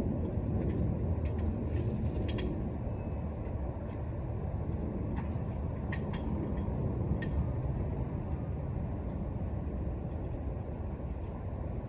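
Rooftop HVAC unit running with a steady low rumble, with a few sharp clicks scattered through it.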